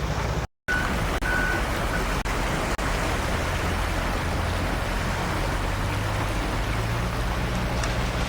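Steady low engine drone under a constant rushing noise. The sound drops out for an instant about half a second in.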